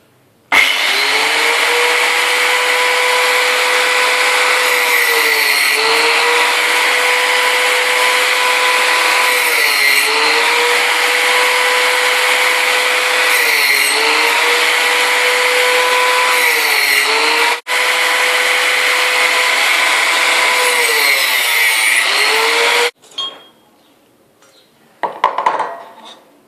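Angle grinder running hard in a stand-mounted cut. Every few seconds its motor pitch sags and recovers as the disc loads down in the cut. It stops suddenly about three-quarters of the way through, followed by a few quieter knocks.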